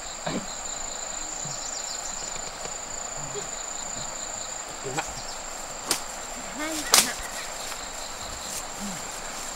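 Insects trilling steadily at a high pitch over a constant hiss, with three sharp clicks about five, six and seven seconds in, the last the loudest.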